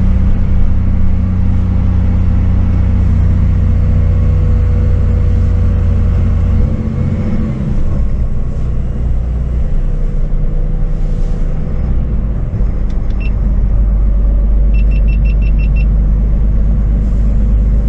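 Scania Super truck's six-cylinder diesel heard from inside the cab on the move: a steady low drone whose pitch shifts about seven and ten seconds in. A short run of quick electronic beeps sounds near the end.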